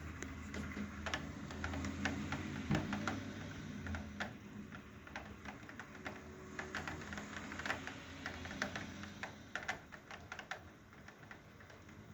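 Irregular light clicks and taps, several a second, with a low rumble under them for the first few seconds.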